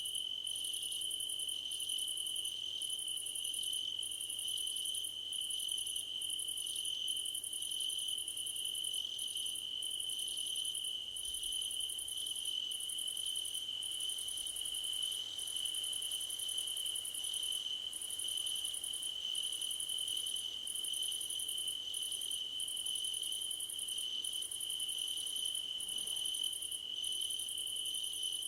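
Crickets chorusing in grass: a steady, unbroken high trill, with a still higher buzzing that comes and goes in short pulses.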